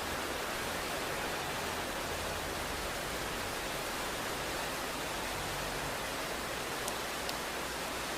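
Rain falling steadily, an even hiss with no thunder, with a couple of faint ticks about seven seconds in.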